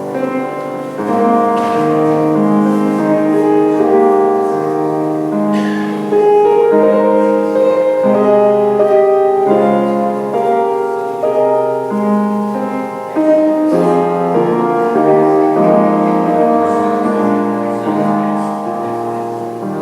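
Piano playing a slow prelude of held chords that change every second or so.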